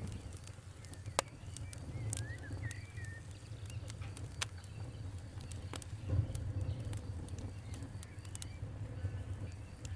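Wood fire crackling, with irregular sharp pops and snaps over a low steady rumble. A bird chirps a few times about two seconds in.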